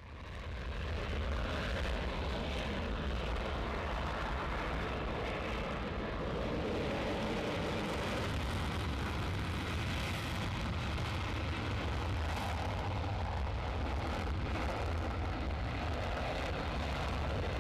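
Jet aircraft engines running with a steady rumble and hiss.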